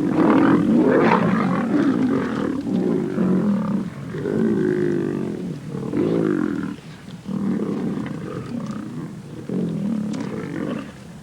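Several lions snarling and growling while squabbling over a kill. The growls are rough and pitched, in overlapping bouts a second or so long, with a short lull about seven seconds in.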